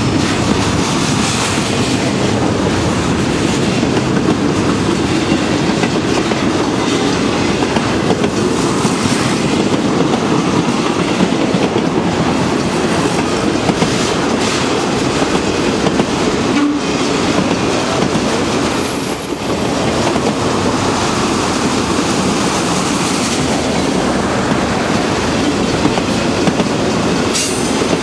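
Freight train cars rolling on the rails, a loud steady run of wheel and rail noise.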